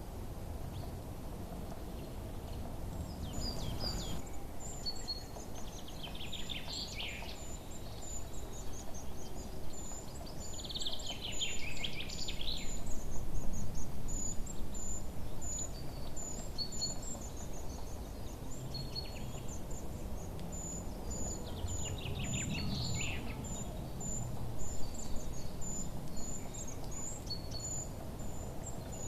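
Songbirds chirping over a steady low background rumble: a short high note repeats all through, and fuller descending song phrases come in three times.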